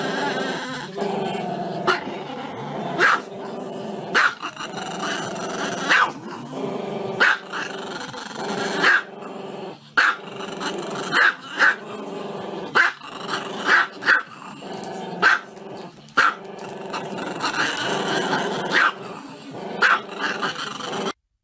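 Small dog barking with its head raised: sharp barks about once a second over a continuous growling grumble.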